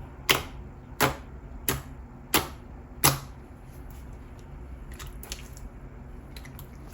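Trigger spray bottle of slime activator pumped five times, a sharp click about every 0.7 seconds, followed by a few fainter clicks.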